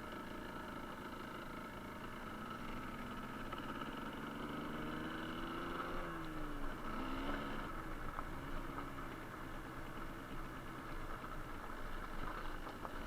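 Suzuki TS125R's two-stroke single-cylinder engine running under way. Its revs climb slowly, fall sharply about six seconds in, dip again a second later and then rise once more.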